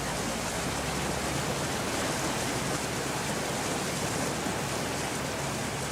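Steady rushing noise, even and unbroken, with a faint low hum beneath it.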